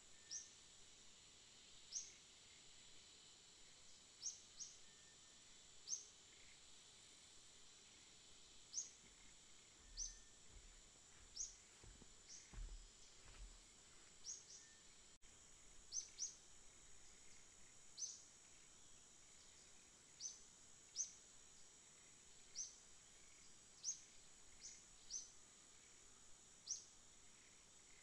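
A bird giving short, high, downward-slurred chirps, repeated every second or two, over a faint steady high-pitched whine. A few low rumbles come near the middle.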